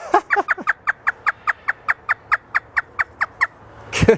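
African grey parrot imitating a hysterical laugh: a fast run of about twenty short, falling-pitch "ha" notes, about six a second, with a louder cry just before the end.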